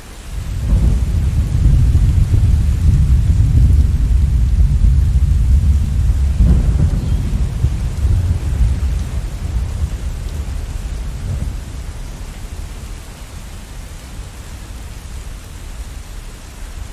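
A long rolling rumble of thunder over steady rain: it builds about a second in, swells again with a second crack near the middle, then slowly dies away under the rain.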